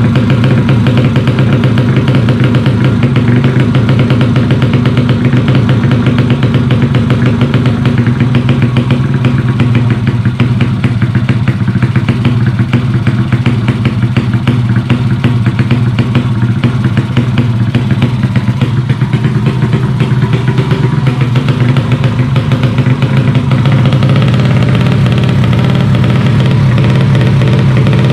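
A 130cc motorcycle engine running steadily with a rapid, even firing beat; its note shifts slightly a few seconds before the end.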